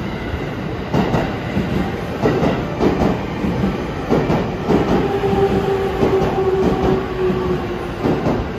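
E257 series 2000-subseries electric train rolling slowly into a platform, its wheels clicking over rail joints and points. From about five seconds in a steady whine is heard for about three seconds as it slows.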